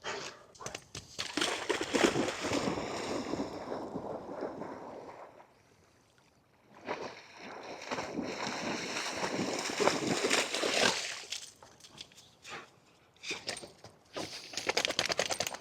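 A Cane Corso splashing through water in two long stretches of a few seconds each with a brief pause between them, then a few shorter splashes near the end.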